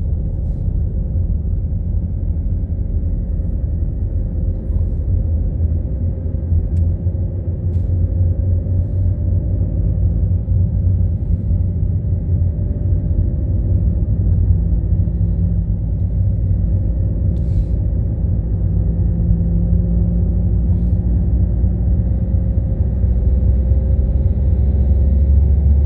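A car being driven: a steady low rumble of engine and road noise, with faint engine tones drifting slowly in pitch and a few light clicks. The low rumble grows stronger near the end.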